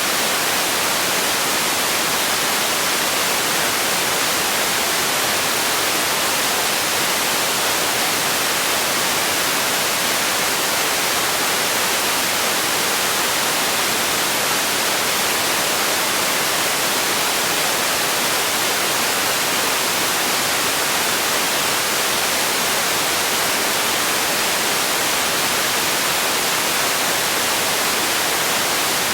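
Steady, unchanging hiss of generated noise for sleep and relaxation, strongest in the high range and weaker in the low end.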